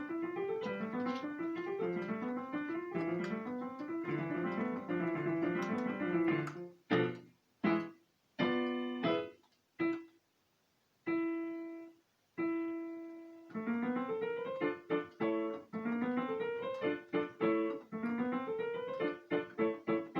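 Solo piano playing a fast piece. It opens with rolling runs of quick notes, then breaks into short, separate chords with pauses between them and two longer held chords, then picks up again with quick repeated notes.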